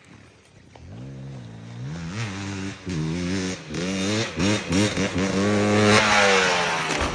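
KTM 300 XC two-stroke dirt bike engine revving up and down as the throttle is worked, growing louder to a peak about six seconds in. The engine note then drops off sharply just before the end, as the throttle is chopped.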